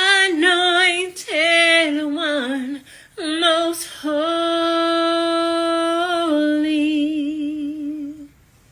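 A woman singing unaccompanied, with vibrato: a few short melodic runs, then long held notes that end about eight seconds in.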